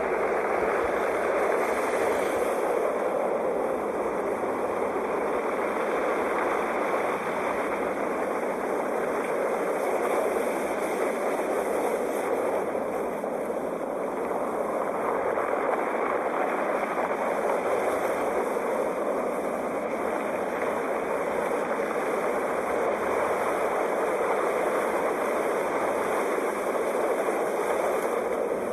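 Sea waves: a steady rush of surf that swells and eases gently, with no distinct single crashes.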